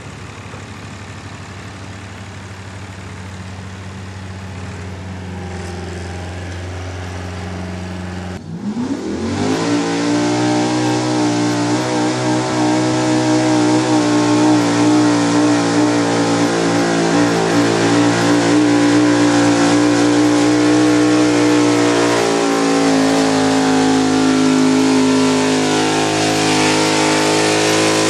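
A pulling truck's engine running at lower revs, then revving up sharply about eight seconds in and held at high revs under load as it drags the weight sled down the track.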